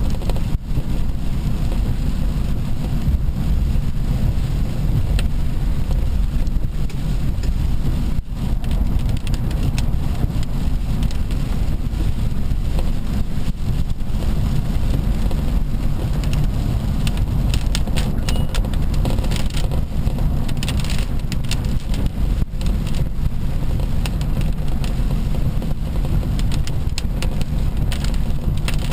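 Steady low rumble of road and wind noise from a moving vehicle, with scattered light ticks in the upper range about two-thirds of the way through.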